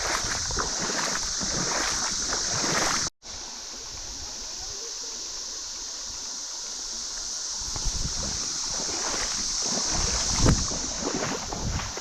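Steady high-pitched drone of a cicada chorus over the noise of river water and wind on the microphone. All sound drops out for an instant about three seconds in, and the wind rumbles louder near the end.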